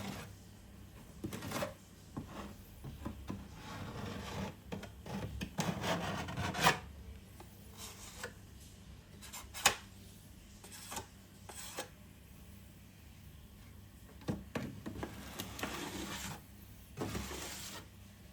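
Irregular scraping and rubbing strokes from hand work on a surface, with a couple of sharp knocks.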